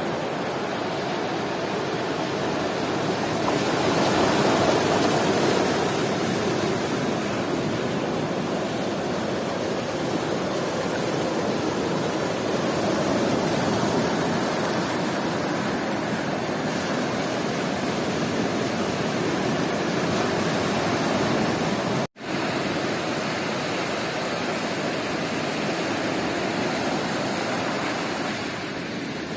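Sea surf washing onto a beach: a continuous rush of breaking waves that swells and eases slowly. About three quarters of the way through, the sound cuts out for a split second and comes straight back.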